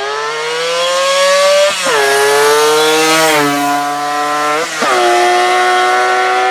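Kawasaki H1 Mach III's 500cc inline three-cylinder two-stroke engine revving hard. The note climbs for nearly two seconds, then drops sharply. It dips briefly once more about five seconds in and otherwise holds a high, steady pitch.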